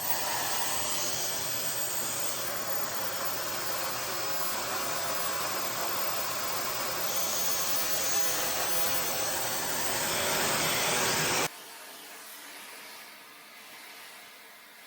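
Handheld electric hair dryer switched on and blowing with a loud, steady rush of air. About eleven seconds in, it drops suddenly to a much fainter hiss.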